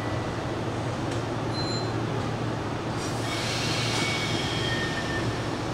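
Hanshin Railway train moving at the Koshien Station platform, a steady low running hum. About three seconds in, several thin high-pitched squeals from the train join in and hold for a couple of seconds.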